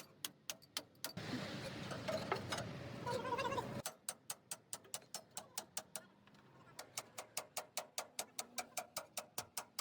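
Rapid, even ticking, about four or five sharp ticks a second, in runs broken by a short stretch of mixed workshop noise and a brief pause.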